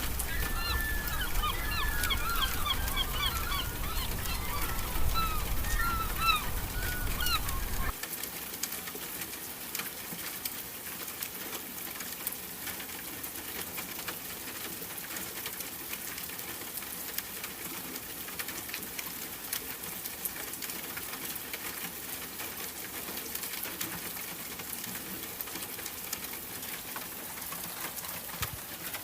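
Ambient sound bed: rapid bird-like chirping calls over a low rumble that stop abruptly about eight seconds in, giving way to a steady rain-like hiss with fine crackles.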